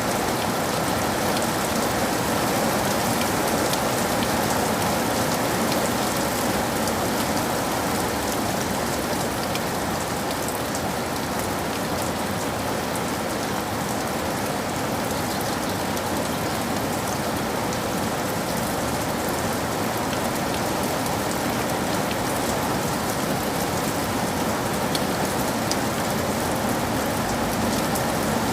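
Steady rain falling, with a constant patter of drops and no clear thunderclap.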